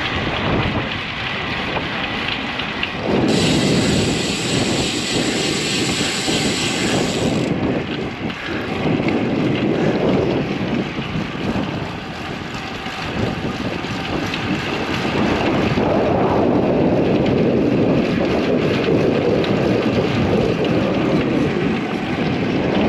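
Wind rushing and buffeting over the microphone of a camera on a moving road bicycle in gusty wind, along with road noise. An added bright hiss runs from about three seconds in to about seven seconds, and the rush grows louder in the second half.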